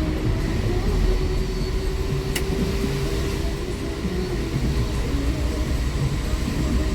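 Hino R260 coach's intercooled diesel engine and road noise heard inside the cabin while driving: a steady low rumble with a steady whine over it, and one sharp click about two and a half seconds in.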